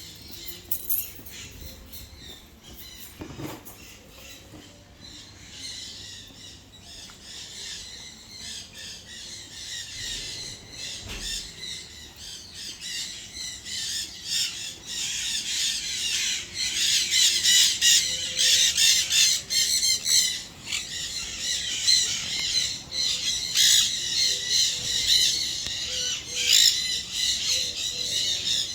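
A flock of parrots squawking together in a dense, overlapping chatter that grows louder about halfway through.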